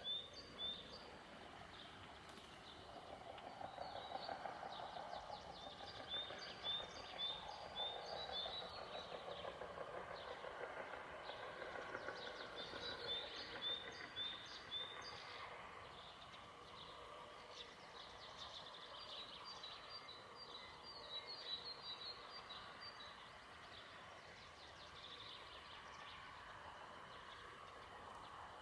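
Songbirds singing, faint: short phrases of quick repeated high notes every few seconds, over a steady background hiss and hum that swells and fades.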